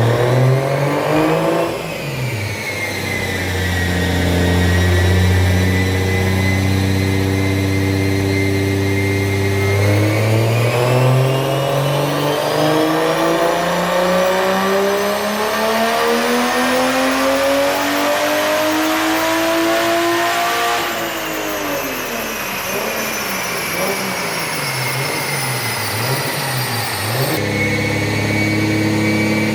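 Turbocharged BMW M52 inline-six on a chassis dyno doing a wastegate-pressure pull. The engine holds steady for several seconds, then climbs smoothly in revs for about ten seconds, and drops back down quickly once the throttle is lifted.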